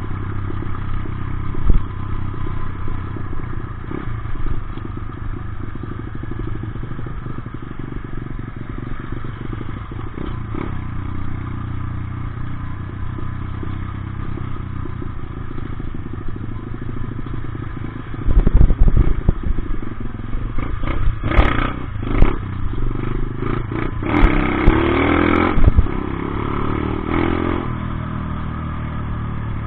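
Dirt bike engine running steadily, then from about two-thirds of the way in a stretch of loud irregular knocks and surges with the engine revving up and down.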